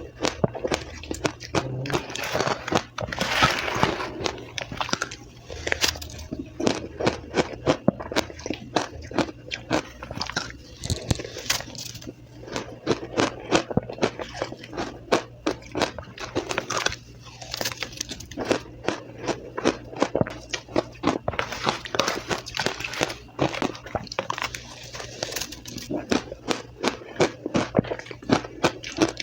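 Close-miked crunching of soft, powdery crushed ice being bitten and chewed, in rapid runs of crisp crunches with short pauses between bites.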